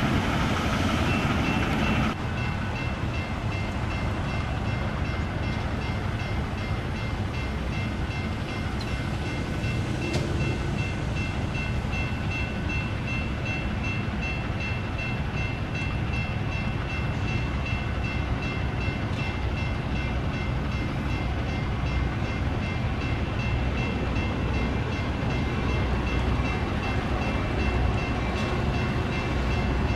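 A train rolling steadily past on temporary shoo-fly detour track, a continuous rumble. Two steady high-pitched tones ring above it from about a second in, and the sound is a little louder for the first two seconds.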